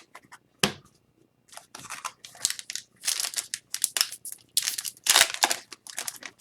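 Hockey card pack being opened and handled: crinkling and tearing of the wrapper and rustling of cards. It starts with a sharp click and grows into dense rustling in the second half.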